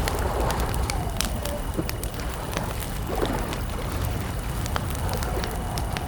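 Wood campfire crackling, with irregular sharp pops and snaps over a low steady rumble, layered with a steady high chirring of crickets and gentle lapping water.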